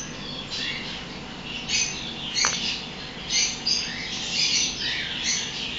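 Birds chirping, many quick high chirps following and overlapping one another.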